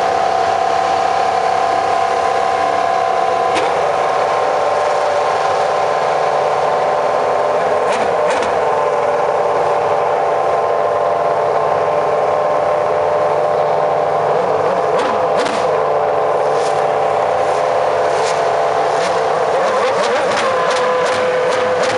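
Formula One car engine running at a steady, held note, with sharp cracks now and then. The note shifts about twenty seconds in.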